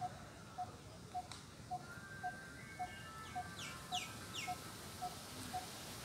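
Birds calling: a steady series of short, even single notes repeating just under twice a second, joined in the middle by three quick high calls that sweep downward, all fairly faint.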